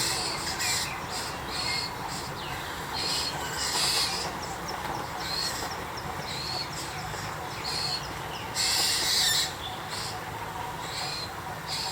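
Birds giving short, harsh, high calls about once a second, with one longer, louder burst of calling about nine seconds in.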